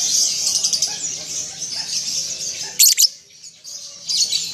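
Songbird singing a fast, unbroken stream of high chirping song, with a short louder burst about three seconds in, then a pause of about a second before the song resumes near the end.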